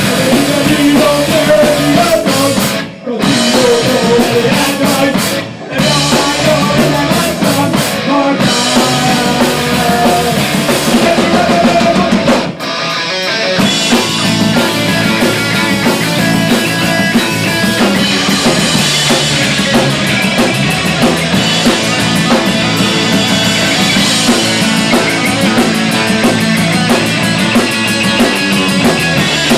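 A rock band playing a song with drum kit and guitar. The music drops out briefly three times in the first half before carrying on.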